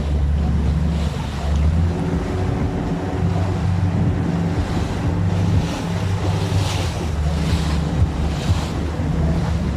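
A boat's engine runs with a steady low hum, with wind buffeting the microphone and water rushing past the hull. Several louder rushes of water come in the second half.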